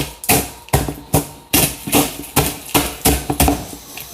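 Crunchy cereal with peanuts being chewed close to the microphone, a sharp crunch about two or three times a second in a steady chewing rhythm.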